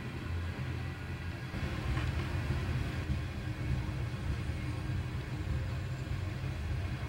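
Loaded coal train's cars rolling past, a steady low rumble of wheels on the rails.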